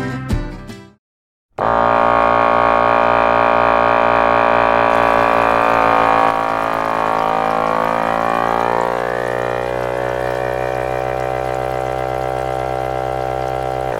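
Strummed guitar music cuts off about a second in. After a moment of silence, a small engine starts up and runs steadily with an even drone, easing slightly lower in level partway through.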